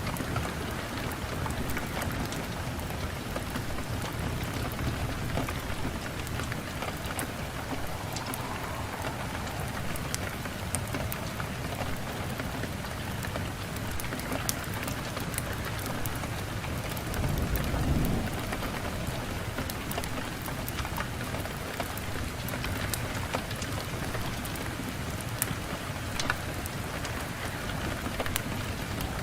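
Wood fire crackling in a fireplace: a steady rushing hiss of flame with many small sharp pops and snaps scattered through it, and a brief low swell about eighteen seconds in.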